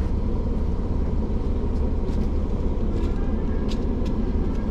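Car engine idling, a steady low rumble heard from inside the cabin with a door open, with a few faint clicks and taps.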